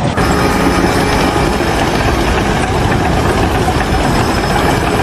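A heavy engine running steadily, with dense machine noise.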